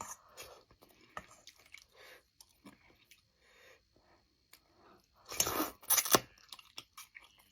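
A person chewing food close to the microphone: soft, wet clicks of eating, then two louder, brief crunching noises about five and a half and six seconds in.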